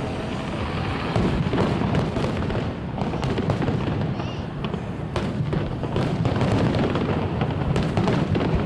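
Fireworks display: many sharp bangs and crackling bursts in quick succession over a continuous low rumble.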